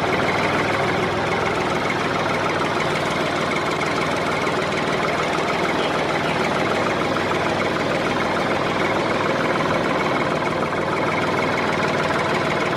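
A motor-driven machine running steadily with a dense, rapid rattle; the sound starts and stops abruptly.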